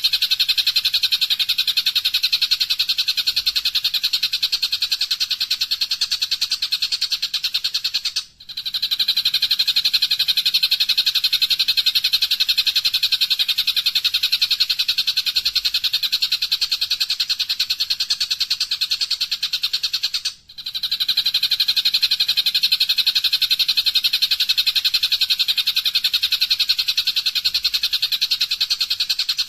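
Songbird song used as training 'masteran': a fast, unbroken high-pitched rattle of rapid repeated notes. It stops briefly twice, about a third and two-thirds of the way through, and then starts again.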